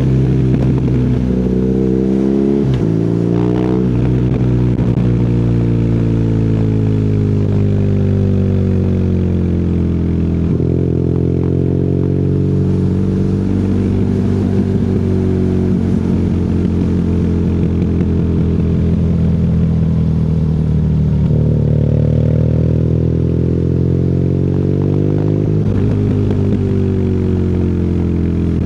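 BMW R nineT's boxer twin running through an Akrapovic exhaust while riding. Engine pitch rises and falls with throttle, with several sudden jumps in pitch as gears are changed.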